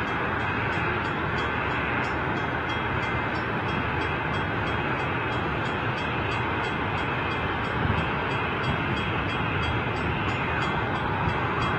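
RS-25 liquid-hydrogen rocket engine firing on the test stand: a steady, unbroken rushing rumble with no breaks or changes in pitch.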